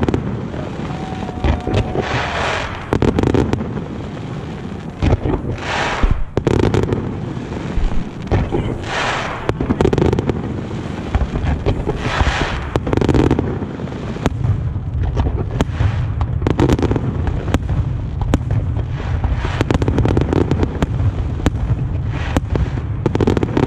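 Aerial fireworks going off: many sharp bangs of bursting shells, with a longer noisy burst of about a second every few seconds, over a steady low rumble.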